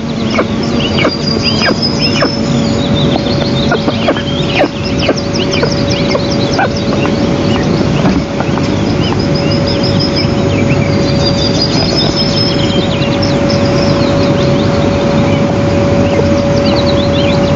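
Steady rushing noise like wind on an outdoor microphone, with many high bird chirps and short trills scattered throughout and a steady hum underneath.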